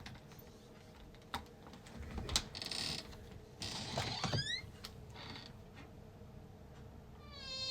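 A door being unlatched and opened: scattered clicks and knocks, short rustling bursts, and short creaks about four seconds in and again near the end.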